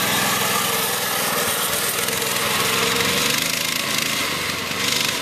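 Massimoto MB200 mini bike's small single-cylinder four-stroke engine running steadily as the bike is ridden.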